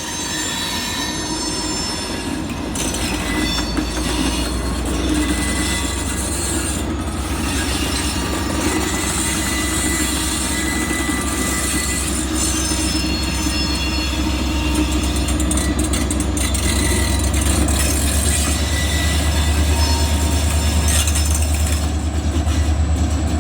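Union Pacific freight cars rolling through a sharp curve, their wheels squealing against the rail in several high steady tones over a low rumble. The rumble grows a little louder in the last few seconds.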